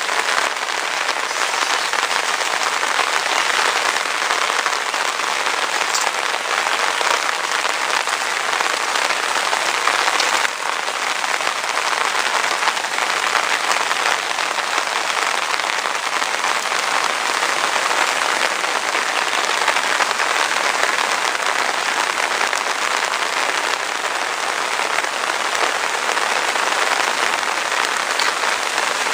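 Rain falling steadily: a dense, even hiss that holds at a constant level throughout.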